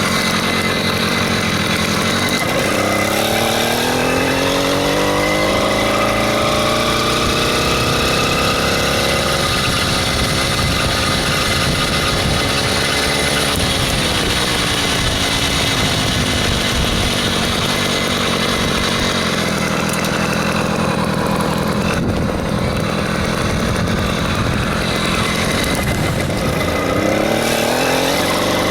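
66cc two-stroke motorized-bicycle engine running while riding: it revs up a couple of seconds in, holds, drops back about halfway through, runs steadily, and revs up again near the end.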